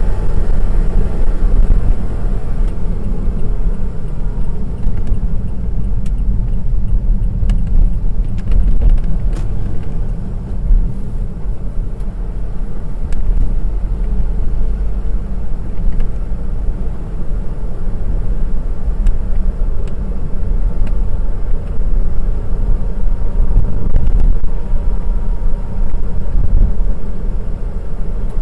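Honda S660's small turbocharged three-cylinder engine and road noise while driving, a steady low rumble with a faint whine that rises and falls in pitch as the engine speed changes.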